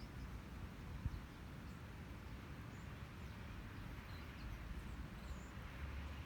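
Quiet outdoor ambience: a steady low rumble and soft hiss, with a few faint, short, high bird chirps scattered through it and one soft knock about a second in.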